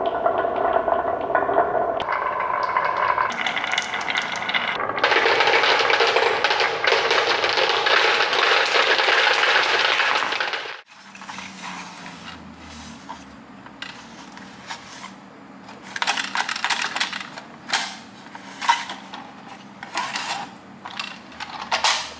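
Marbles rolling and clattering on a toy marble run, a loud continuous rush that cuts off suddenly about eleven seconds in. After that a low motor hum carries on under scattered sharp clicks and clinks.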